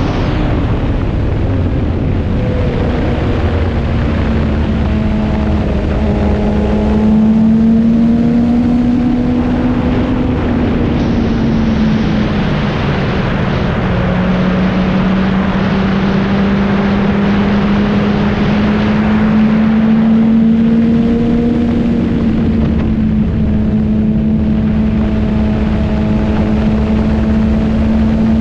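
Motorcycle engine running at a steady pace while riding, heavily mixed with wind noise. The engine note drops a little about twelve seconds in, then slowly rises again.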